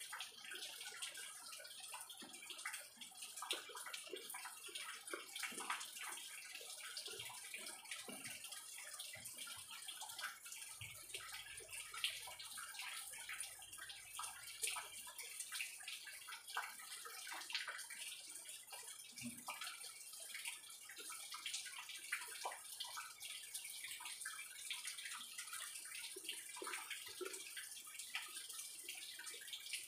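Close, wet chewing and mouth clicks of someone eating crisp mango slices dipped in shrimp paste, many small irregular smacks, over a faint steady hiss.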